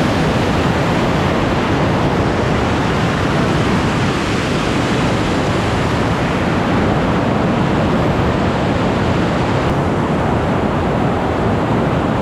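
Large waterfall pouring steadily: a loud, even rush of falling water.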